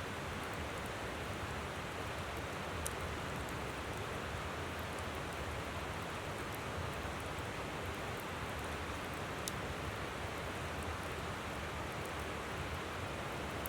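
River water flowing in a steady rush, with a wood campfire giving a few sharp, scattered crackles and pops.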